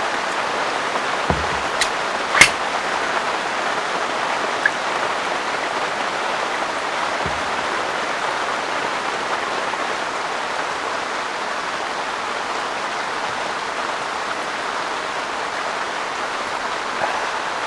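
Heavy rain falling steadily without a break. A few sharp taps stand out in the first few seconds, the loudest about two and a half seconds in.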